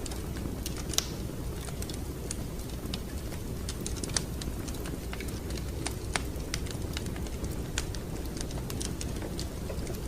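Wood fire crackling in a fireplace: irregular sharp pops and snaps, a few a second, over a low steady rumble, with louder snaps about a second in and about four seconds in.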